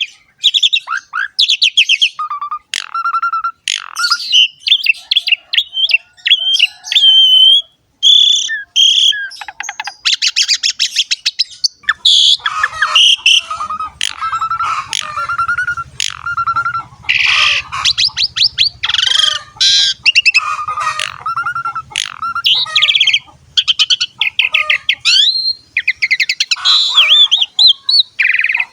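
Javan pied starling (jalak suren) singing a long, varied song of clear whistles, gliding notes and rapid chattering trills, with short breaks between phrases.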